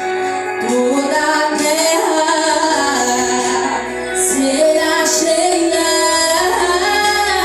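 Worship song with a woman's voice singing a melody over instrumental accompaniment, in a large room.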